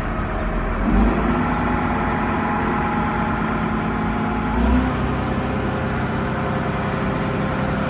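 Car engine idling steadily, with two brief rises in engine note, about a second in and again near the middle.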